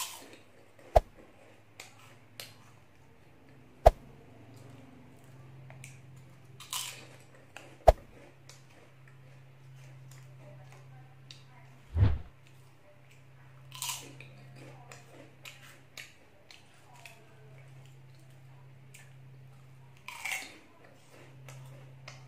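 Crisp tube-shaped puffed snacks being bitten and chewed close to the microphone: scattered small crunches and crackles with a few sharp loud clicks, and a dull thump about halfway through. A low steady hum sits underneath.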